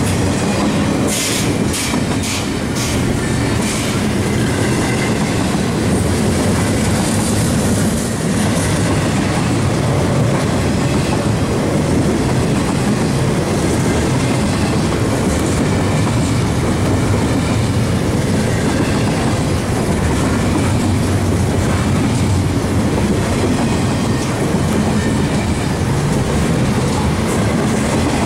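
Double-stack intermodal freight train rolling past: a steady, loud rumble of loaded well cars, wheels clacking over the rail joints, with a run of sharp clacks between about one and three seconds in.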